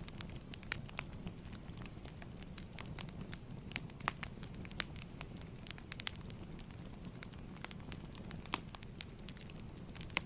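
Wood fire crackling in a fireplace: a steady low rush of flame with irregular sharp pops and snaps, a few louder ones scattered through.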